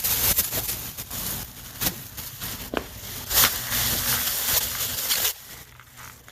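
Rustling, crinkling handling noise with a few sharp clicks, over a faint low steady hum; it quietens about five seconds in.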